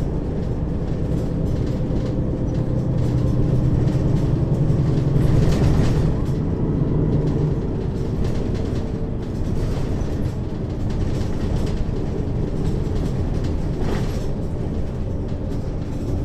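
Mercedes-Benz Citaro city bus under way, heard from inside above the second axle: the diesel engine and ZF Ecomat 6HP-592 C automatic transmission drone steadily. The engine note grows louder around five seconds in and eases off about two seconds later, with occasional knocks and rattles from the running gear.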